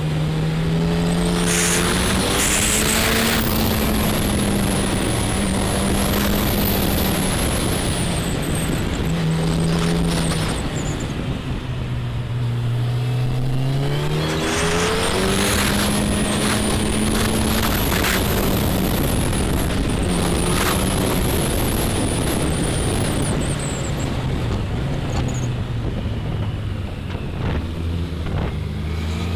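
Motorcycle engine running under way on a winding climb, heard on board with rushing noise around it. The engine note holds, falls about twelve seconds in and again near the end, and climbs back each time as the bike slows for bends and pulls away.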